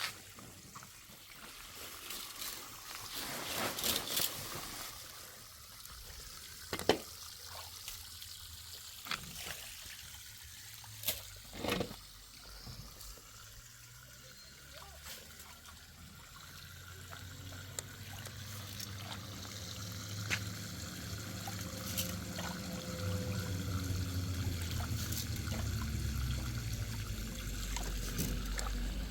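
Water trickling and pouring, with scattered clicks and knocks in the first half. A low rumble grows louder through the second half.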